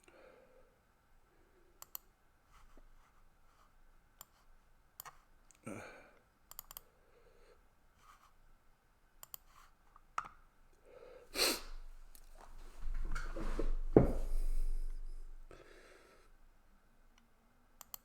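Scattered sharp clicks, typical of a computer mouse being clicked, with soft breathing close to the microphone. Around eleven to fifteen seconds in comes a louder noisy stretch with a low rumble.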